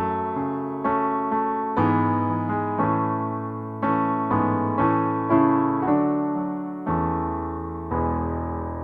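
Solo electric piano playing slow sustained chords, struck about once a second and left to fade between strikes.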